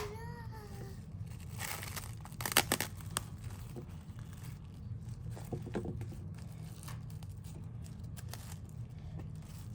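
Plastic sheet being torn and crinkled as it is stretched over a container, with the loudest tearing strokes about two to three seconds in and lighter crinkling after. A steady low hum runs underneath.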